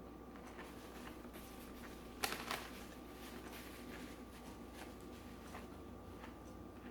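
Quiet eating noises from a meal of Chinese takeout: scattered small clicks, with a short crackle a little over two seconds in, over a faint steady hum.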